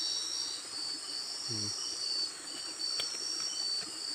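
A steady chorus of insects, a high-pitched shrill trilling that pulses in even beats. A brief low voice sound comes about a second and a half in, and a single sharp click near the end.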